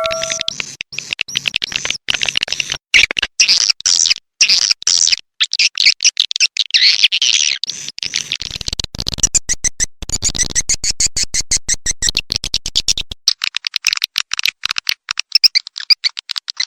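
Swiftlet calling recording, a lure sound played to draw swiftlets to a swiftlet house: rapid high chirps and twitters in quick strings, with a stretch of fast clicking trills about halfway through.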